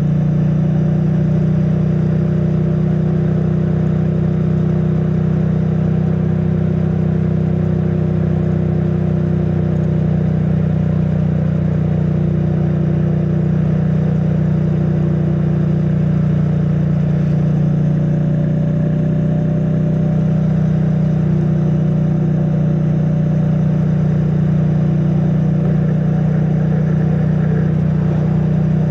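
2022 Triumph Bonneville T100's 900 cc parallel-twin engine through its stock exhaust, cruising at a steady speed with an even engine note, heard through a microphone stuffed in the rider's backpack.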